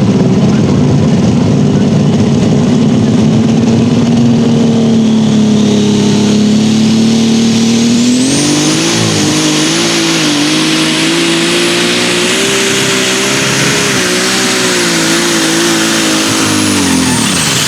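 Light super stock pulling tractor's turbocharged diesel engine running at high revs under load. About halfway in, the revs step up and a high turbo whistle comes in and holds. Near the end the engine drops off sharply as the throttle comes off.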